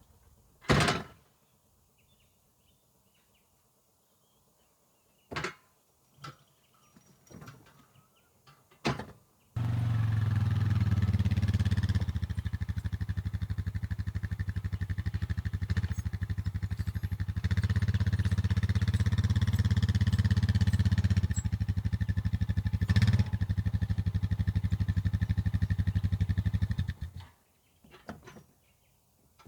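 Mini excavator's engine running steadily for about seventeen seconds, starting and stopping abruptly, a little louder in the middle stretch. Before and after it there are only a few short clicks and knocks.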